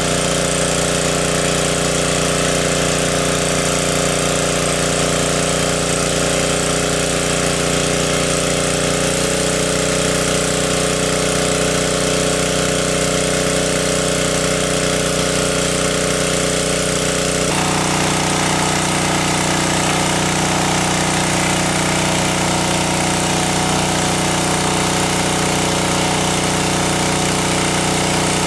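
A motor running steadily, its tone shifting suddenly twice, about nine and seventeen seconds in.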